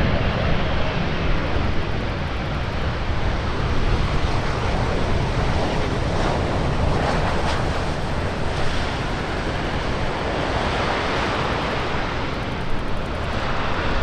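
Four-engine Airbus A380 jet, a steady, loud engine noise that holds evenly throughout, with wind noise on the microphone.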